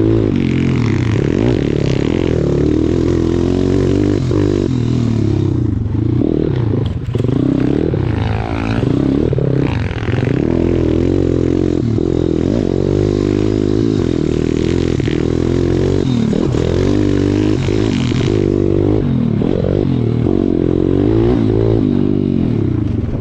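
Pit bike engine running loudly, revving up and down continuously while riding, with clattering from the bike over rough ground.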